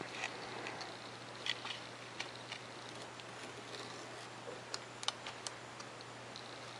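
Faint, scattered clicks and crackles of a razor knife cutting through 3 mm Depron foam, over a steady low hum.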